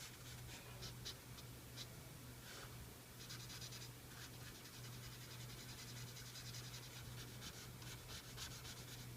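Permanent marker tip scratching faintly on paper in many short strokes, over a steady low hum.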